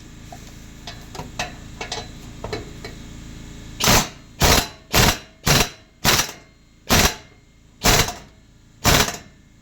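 Impact wrench fired in eight short bursts, about one every 0.6 to 1 second, running down the muffler's bolts. Light clicks of hand tools and metal on metal come first.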